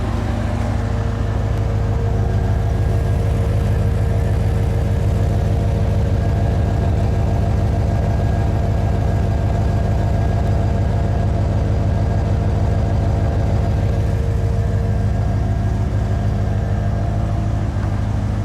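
1990 C4 Corvette's V8 idling steadily through a new Borla 2.5-inch cat-delete exhaust, a low, even exhaust note that is decently loud.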